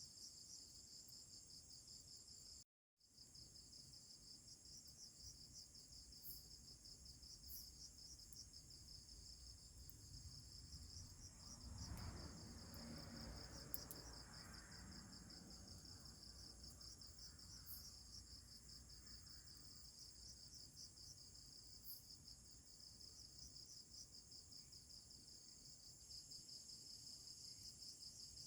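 Faint chorus of crickets: a steady, high-pitched, fast-pulsing trill. The sound cuts out completely for a moment about three seconds in, and a faint low rustle rises briefly around the middle.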